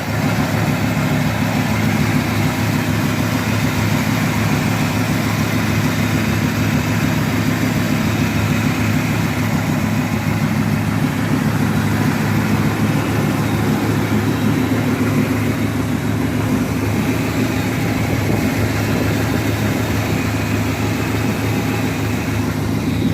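1973 Chevrolet Impala's V8 idling steadily through Flowmaster mufflers, with a mild aftermarket cam, running evenly on freshly installed spark plugs.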